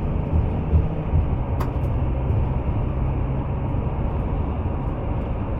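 Steady engine and road rumble inside the cab of a Class C motorhome on the move, with one sharp click about one and a half seconds in.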